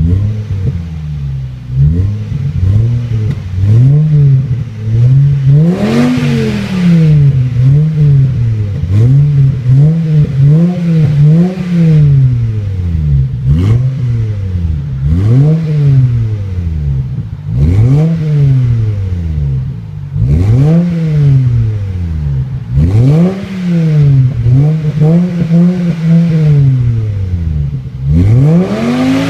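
Volvo V70 2.4's inline five-cylinder engine revved repeatedly through an aftermarket exhaust. Short blips of throttle rise and fall every second or two, with bigger revs about six seconds in and near the end.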